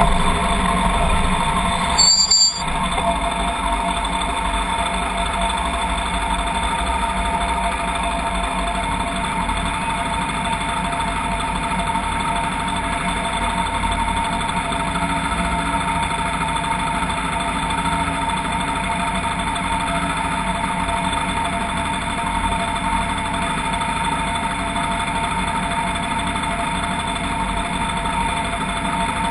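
Vehicle engine running steadily. A brief sharp sound comes about two seconds in.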